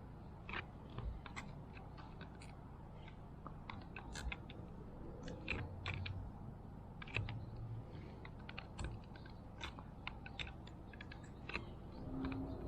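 Irregular light clicks and taps of small plastic and metal parts being handled by hand while a fuel pump assembly is worked apart.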